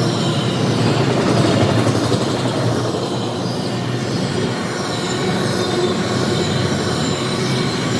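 A train rolling past close by on the tracks: a steady, loud rumble and rattle of wheels and cars over the rails, with faint high squeal.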